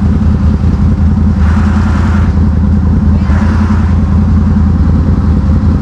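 ATV engine running steadily and loudly close by, with two short rushes of hiss about one and a half and three seconds in.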